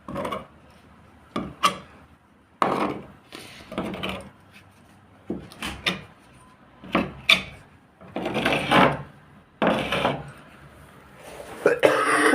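Irregular rubbing and scraping strokes, each about half a second to a second long.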